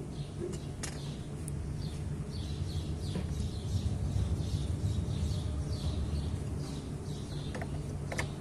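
Birds chirping over and over in short falling notes above a steady low rumble, with a couple of sharp light clicks from hands working on the scooter's belt drive, about a second in and near the end.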